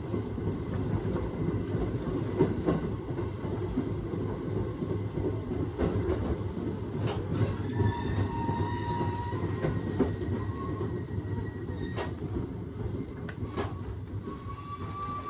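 Aoimori Railway 701-series electric train running on the rails, heard from inside the car: a steady low rumble with scattered clicks over the track and a few brief, thin squeals. The noise eases off near the end.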